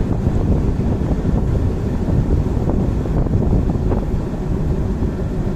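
Train running past at speed on the track: a loud, steady rumble of wheels on the rails, with wind buffeting the microphone.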